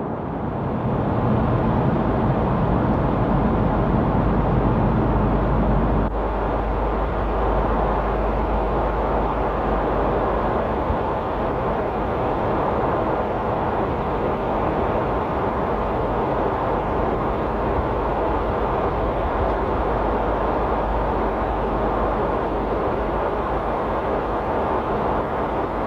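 Airplane noise: a steady rushing sound with a low rumble underneath, which changes abruptly about six seconds in.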